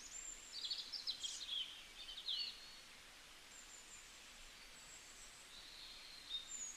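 Faint high-pitched bird chirps over a soft steady hiss: quick clusters of chirps in the first couple of seconds, then a few thin whistled notes.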